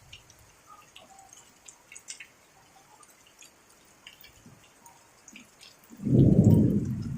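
Light rain with scattered drops dripping, then about six seconds in a sudden loud, low rumble of thunder.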